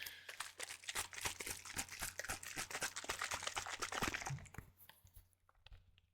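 Plastic spray bottle of concentrated orange cleaner being shaken, giving a dense run of crackly clicks that dies away about four and a half seconds in.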